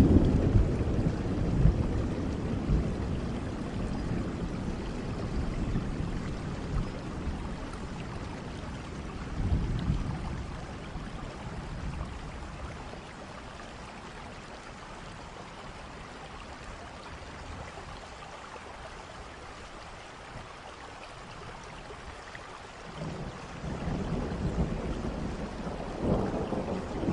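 Steady rain with rolling thunder. A deep rumble fades away at the start, another rolls in about ten seconds in, and after a quieter stretch of rain alone the thunder builds again near the end.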